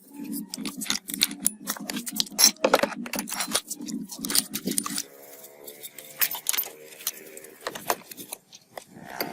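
Metal parts clinking and clattering against each other in a run of sharp clicks, over a low steady hum that stops about five seconds in.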